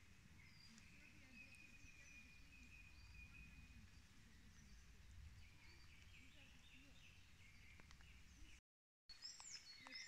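Faint forest birdsong: scattered short chirps and one held whistled note, over a low background rumble. The sound drops out completely for a moment near the end, then more chirps follow.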